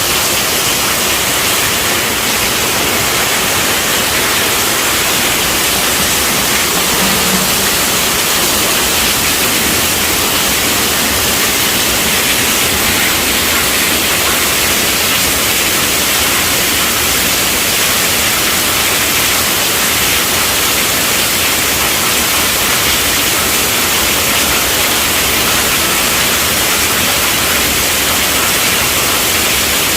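Steady rainfall, an even hiss that doesn't change.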